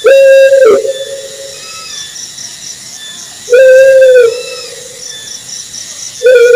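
Owl calling: three loud, drawn-out hoots about three seconds apart, each held on one pitch and dropping away at the end, with an echoing tail. A faint high rhythmic chirping runs underneath.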